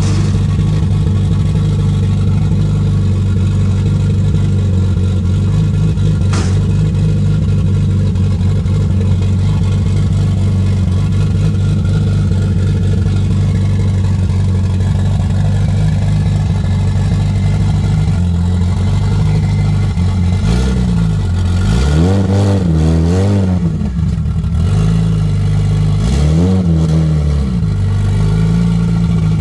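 Toyota Supra engine idling steadily, then blipped several times in quick succession about two-thirds of the way through, with one more blip a few seconds later.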